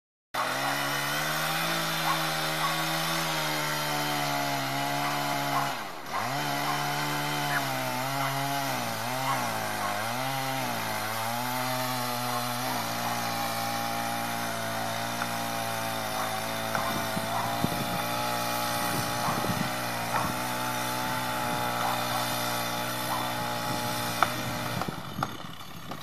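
Chainsaw running through a felling cut. Its engine pitch drops and recovers several times between about six and thirteen seconds in, then holds steady.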